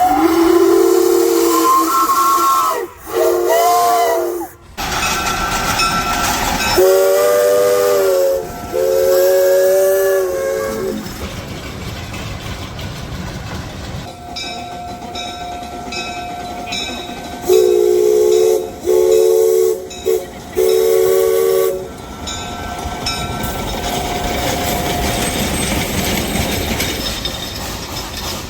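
Chime steam whistle of a replica Shay locomotive, heard close from the cab, sounding two groups of blasts, the second long, long, short, long. A steady hiss of the running locomotive fills the gaps between blasts.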